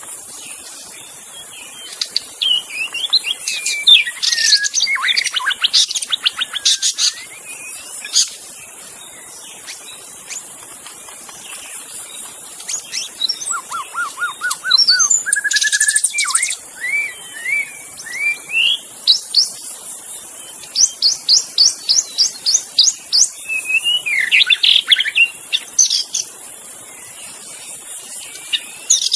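White-rumped shama (murai batu) singing in separate varied phrases: whistled slurs, a rising run of quick repeated notes midway, and fast high trills later on, with short pauses between phrases. A steady high hiss runs underneath.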